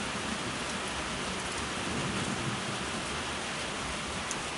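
Steady rain falling and splashing on surfaces, an even hiss with no breaks.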